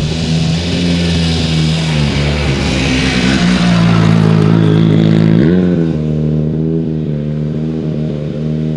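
Hyundai i20 Coupe WRC rally car's turbocharged 1.6-litre four-cylinder engine running hard on a gravel test stage, its pitch stepping and rising between gear changes. A rushing hiss rides over the engine in the first half, and the engine note holds steady near the end.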